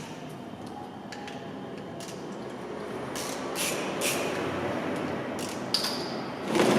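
Cordless drill running as it backs bolts out of a Honda CB300R's engine case, the noise slowly building, with a few sharp clicks partway through.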